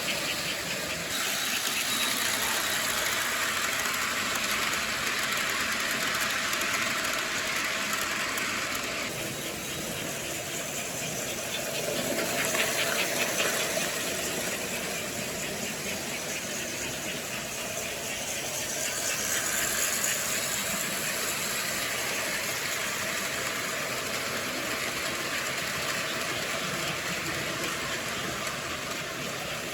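Model electric train running on its track: a steady motor hum and wheel rumble that swells and fades as it passes, with patches of rapid fine clicking.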